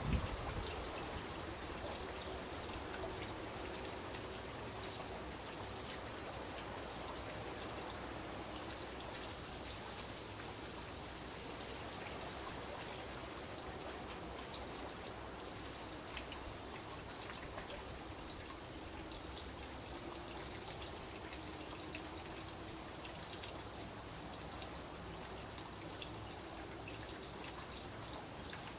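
Garden fountain water splashing and dripping steadily: a continuous patter of fine drops.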